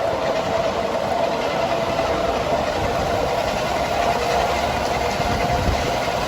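Miniature ride-on tourist train running along its track: a steady mechanical hum with a constant whining tone over the rumble of the wheels.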